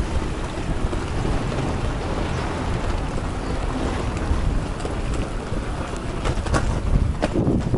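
Steady rumbling wind noise on the camera's microphone while walking along a city street, with a few sharp clicks near the end.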